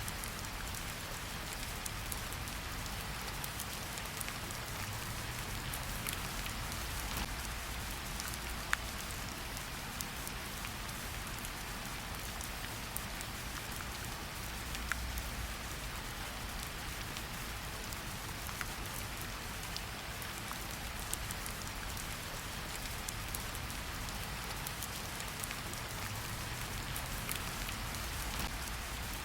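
Steady rain falling in a forest, a constant hiss with scattered individual drop ticks, the loudest a few seconds into the clip.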